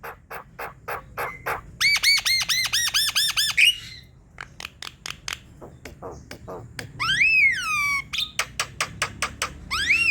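Javan myna (jalak kebo) singing a varied chattering song: rapid harsh clicks and chips, a quick run of repeated ringing notes, and loud whistled calls that rise and then slide down, near the end.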